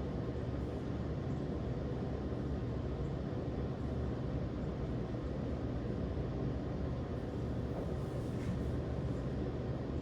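A steady low rumble that holds level throughout, with no distinct strikes or claps.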